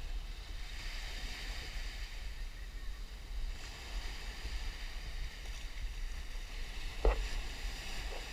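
Wind buffeting a GoPro's microphone as a steady low rumble, over the hiss of surf washing on the beach, with one brief louder bump near the end.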